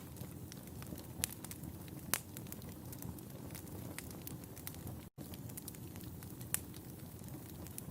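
Fireplace fire crackling: a steady low rumble of burning with sharp pops and snaps now and then, the strongest a little over a second in, about two seconds in and near six and a half seconds. The sound cuts out completely for an instant about five seconds in.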